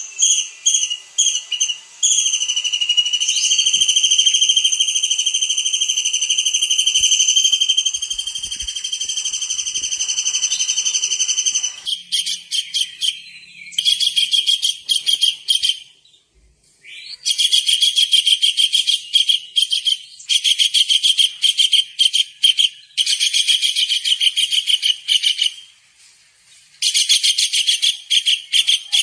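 A kingfisher (tengkek udang) calling loudly. First comes a long unbroken high trill lasting about ten seconds, then a run of bursts of rapid high notes, each a second or two long, with short pauses between them.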